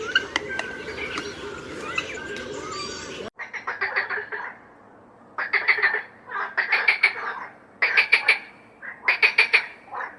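Birds chirping and whistling over a busy natural ambience. About three seconds in, a sudden cut brings an animal calling in repeated short bursts of quick pulses.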